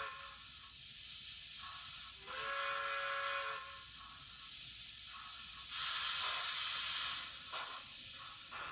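Recorded steam locomotive sounds from a model train: a steam whistle ends just as the sound begins, a second whistle blast of about a second and a half follows a couple of seconds in, and a loud burst of steam hiss comes about six seconds in.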